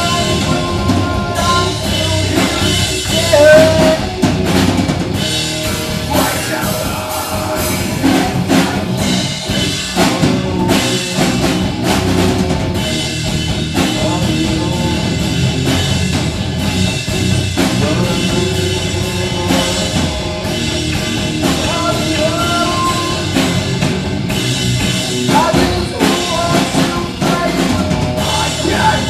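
Live rock band playing loud, with a steady drum-kit beat under the full band.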